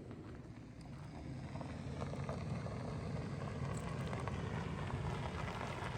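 Low rumble of an approaching vehicle, slowly growing louder.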